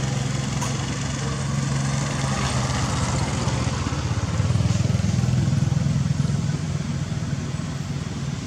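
A small engine running steadily, louder from about halfway through.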